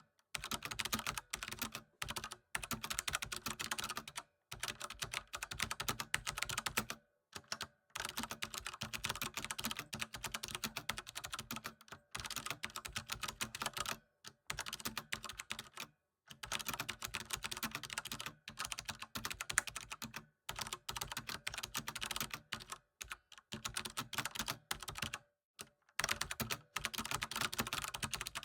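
Fast typing on a computer keyboard: a rapid stream of key clicks in runs of a few seconds, broken by brief pauses.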